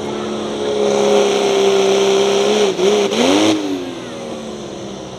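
A truck or tractor pulling engine runs hard at high revs under load and grows louder. Around three seconds in its pitch wobbles, dips and climbs back, then the sound gets quieter.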